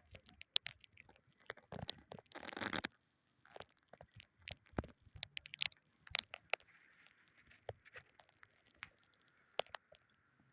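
Scattered light clicks and knocks, with a short splashing rush about two and a half seconds in: water and paddle sounds around a kayak.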